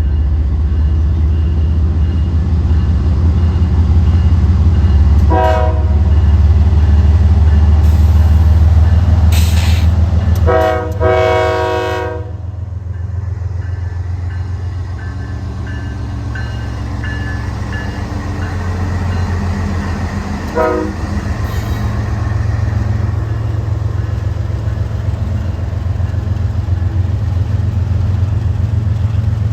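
CSX train rolling past with a heavy low rumble that eases off after about twelve seconds, its locomotive horn sounding a short blast, then two longer blasts, then one more short blast.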